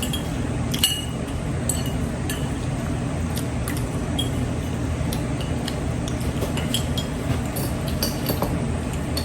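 Fork or spoon clinking against a plate now and then while eating spaghetti, short light clinks each with a brief ring, over a steady low hum.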